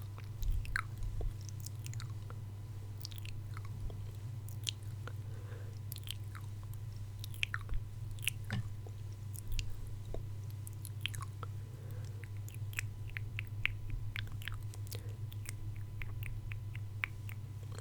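Close-miked ASMR mouth sounds: irregular soft wet clicks and smacks, coming more often near the end, over a steady low electrical hum.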